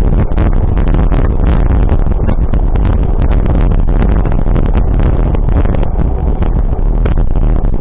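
Loud, steady vehicle travel noise with wind buffeting the microphone, heaviest in the low end.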